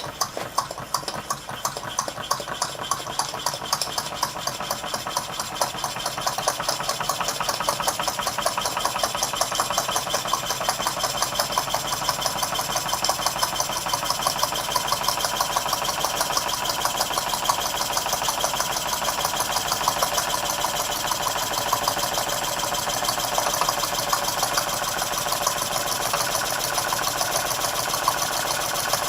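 PM Research No. 1 drilling engine, a small model steam engine, running on steam with a fast, even beat of clicks.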